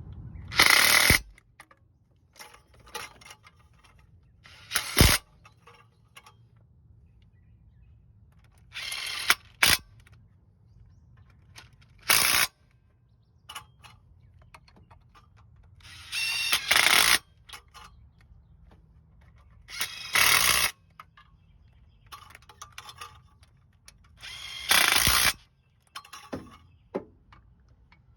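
A power tool run in short bursts, about seven times, with quiet gaps between, while bolts are worked on the engine during a head gasket job.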